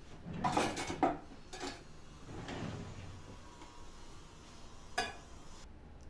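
Household objects being handled during cleaning: a short clatter ending in a sharp knock about a second in, a soft brushing sound near the middle, and a single sharp click about five seconds in.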